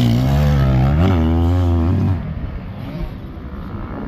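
Dirt bike engine revving close by, its pitch rising and falling, then dropping away about two seconds in to quieter engine noise.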